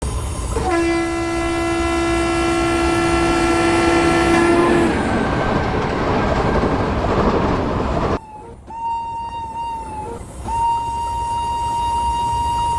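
Train horn sounding one long blast of about four seconds over the rumble and clatter of an express train running into the station. The rolling noise keeps on until it cuts off abruptly about eight seconds in. A steady high-pitched whine follows, broken briefly around ten seconds.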